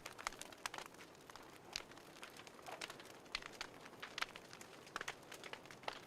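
Fireplace fire crackling: irregular sharp pops and snaps, a few a second, over a faint steady hiss.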